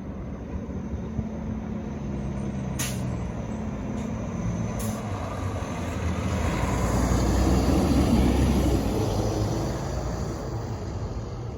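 Diesel garbage truck engine approaching and passing, growing louder to a peak about eight seconds in, then easing. Two short sharp high sounds come about three and five seconds in.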